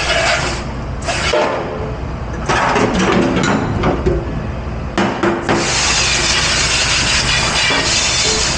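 Dish-pit washing noise: irregular clatter and knocks of dishes and utensils with brief ringing tones, then from about halfway a steady rushing hiss of spraying water.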